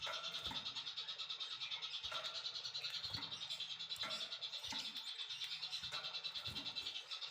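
Songbird recording played as song-fill for training white-rumped shamas: a high-pitched, fast pulsing trill running without a break, about ten pulses a second, with a few short clicks and lower notes among it.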